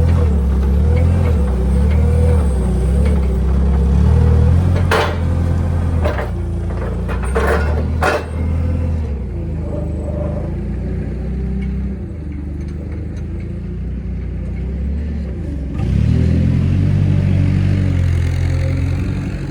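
A large engine running with a low rumble, its speed rising and falling: it eases off about nine seconds in and comes up again near the end. Several sharp metallic knocks come around the middle.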